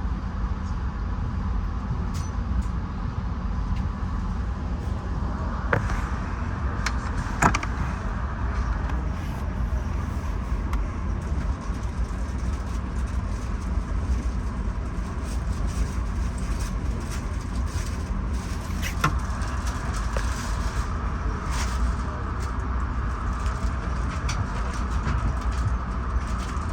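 Interior of a Bombardier LRC passenger coach under way: a steady low rumble of wheels on rail and running gear, with a few sharp clicks and knocks, the loudest about a quarter of the way in.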